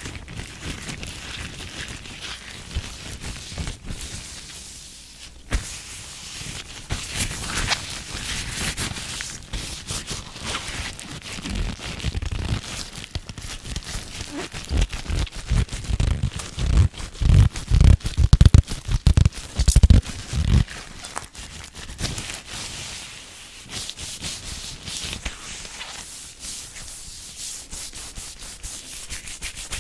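ASMR hand sounds close to the microphone: palms and fingers rubbing and brushing with a dry rustle and scattered crackles. It grows louder through the middle, with deep thumps from the hands moving against the mic.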